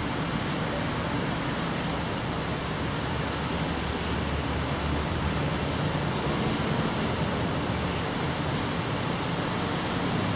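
Steady rain falling, with a few sharp drip ticks over a low, even rumble.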